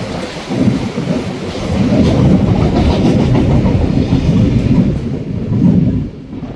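A train passing close by: a heavy rumble of wheels on rails, loudest through the middle and dropping away sharply near the end.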